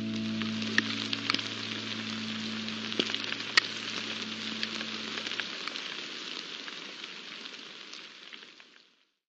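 Steady rain hiss with scattered sharp drop ticks, fading out near the end.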